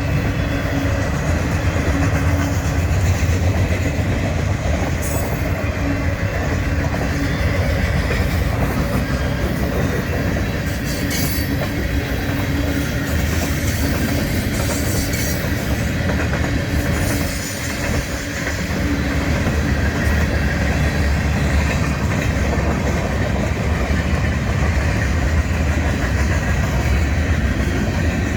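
Freight train's cars rolling steadily past, wheels clacking over the rail joints, with a brief lull about two-thirds of the way through.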